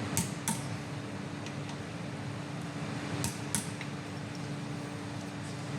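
Sharp metallic clinks of rear brake pads being fitted into the caliper bracket: two quick pairs of clicks, one near the start and one a little past the middle, over a steady low hum.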